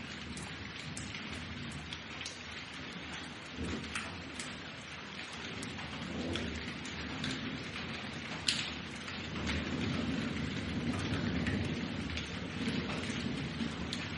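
Steady rain with many sharp individual drops, under low rumbling thunder that swells a few times and is strongest in the second half.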